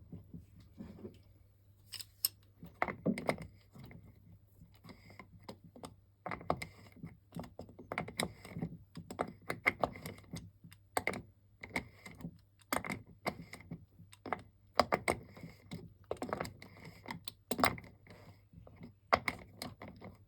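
Irregular clicks and taps of small hand tools and metal parts, with some quick rattling runs, as an RC truck's wheels and rear suspension are put back together.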